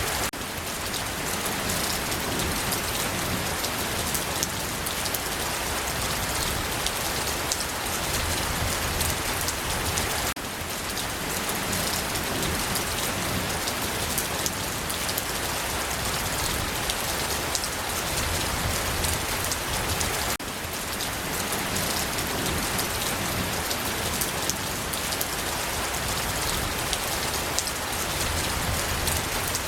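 Steady heavy rainfall pattering on a surface, an even wash of drops with no thunder. The level dips briefly about every ten seconds.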